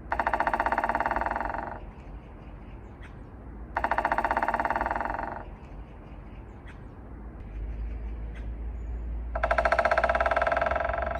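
A woodpecker drumming on a tree branch with its beak: three long, very fast rolls of strikes, one at the start, one about four seconds in and one near the end. A low background rumble runs beneath them.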